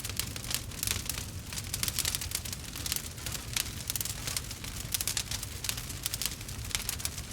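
Wood fire crackling and popping, a steady stream of small sharp snaps several times a second over a low steady rumble.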